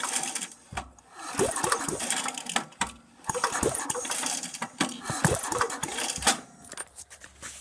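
Small single-cylinder engine on a homemade go-kart cranked by its recoil pull-starter, about four pulls, each spinning the engine briefly without it catching. It is being tested on a newly fitted spark plug after a no-start.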